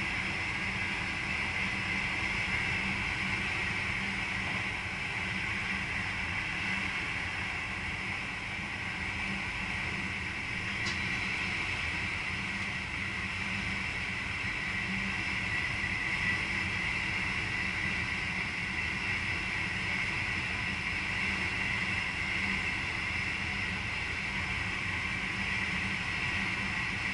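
VIRM double-deck electric intercity train running steadily, heard from the driver's cab: an even rumble and hiss of the running gear with a constant hum. A faint single tick about eleven seconds in.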